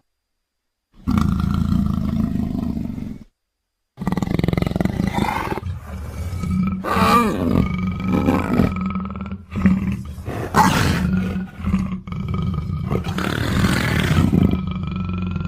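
Leopard roars and growls as edited sound effects: a short call about a second in, then after a brief silence a long run of roars and snarls from about four seconds on.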